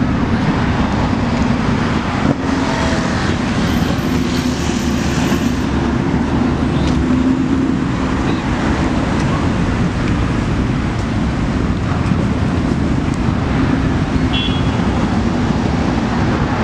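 Steady loud din of running vehicle engines, with a low hum throughout.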